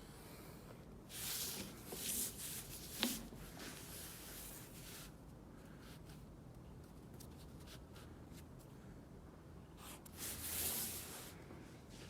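Pencil drawing lines in several scratchy strokes, with a sharp tap about three seconds in, then a further stroke near the end.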